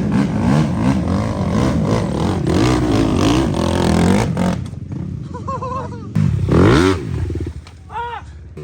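Several off-road quad and dirt bike engines revving up and down over one another. About six and a half seconds in comes one sharp rise and fall of revs, and after that it is quieter.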